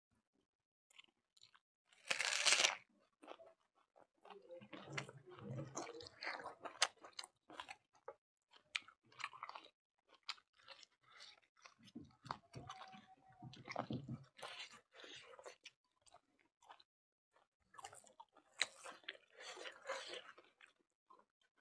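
Close-up chewing and crunching of rice, chicken curry and fresh greens eaten by hand, with scattered small clicks and mouth sounds and one louder burst a little over two seconds in.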